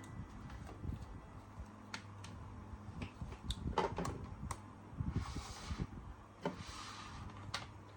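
Scattered light clicks and taps, as of small objects being handled, over a faint steady low hum, with a soft hiss about five seconds in and again near six and a half seconds.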